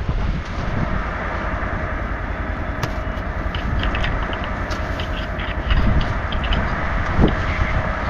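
Furnace exhaust vents blowing: a steady rushing hum with a faint steady tone and a few light ticks. The furnaces have just started after their snow-blocked vents were cleared.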